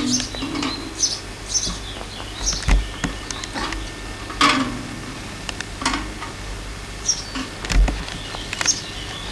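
Birds chirping in short scattered calls, with a couple of dull bumps of camera handling.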